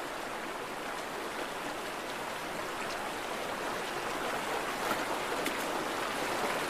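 Steady rush of flowing stream water, growing slightly louder toward the end, with a few faint clicks in its second half.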